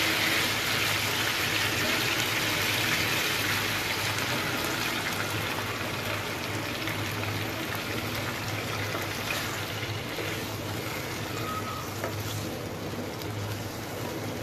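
Chicken pieces sizzling in a karahi, stirred with a wooden spatula as a pale ground korma paste is poured in over them. The sizzle slowly fades as the liquid covers the chicken.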